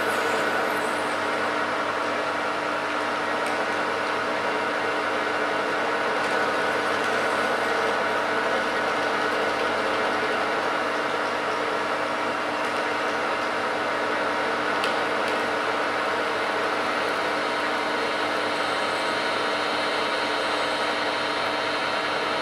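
Metalworking lathe running at a very slow speed while a parting-off tool cuts through a nylon bar: a steady mechanical run with several steady tones and even level throughout.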